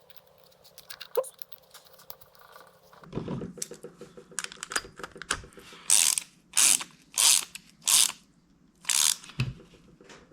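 Ratchet wrench clicking as the carburetor float bowl is fastened back on: a run of quick small clicks, then about five louder back-strokes a little over half a second apart.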